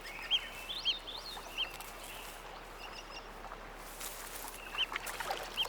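River otters chirping: a series of short, high squeaky calls, irregularly spaced, over faint outdoor ambience.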